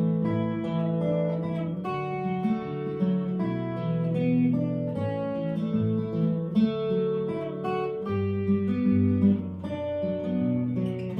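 Instrumental break of a folk song: acoustic guitar strummed with changing chords and notes, no singing.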